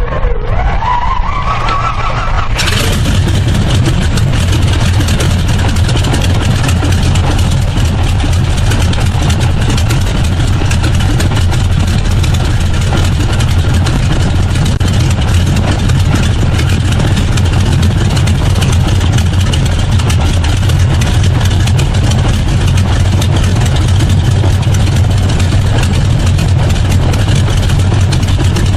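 Radial engine being started: the starter winds up with a rising whine, then the engine catches suddenly about two and a half seconds in and settles into a loud, steady run.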